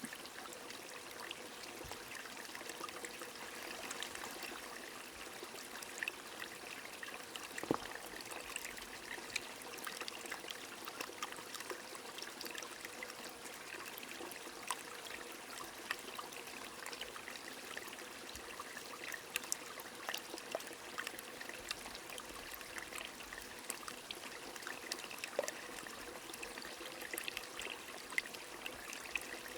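Rain falling over a flowing stream: a steady water rush scattered with many small, sharp drop ticks.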